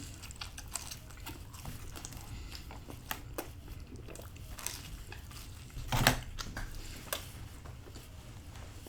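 Chewing and biting into pizza: scattered small crunchy clicks of mouth sounds, with a louder bite about six seconds in.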